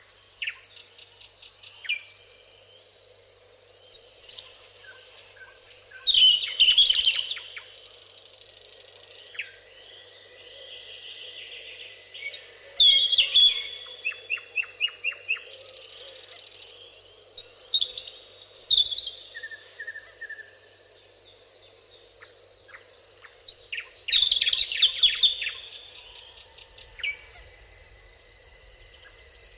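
Several songbirds singing and calling, with a loud, rapid trilled song phrase coming back about every six seconds, over a steady high-pitched buzz.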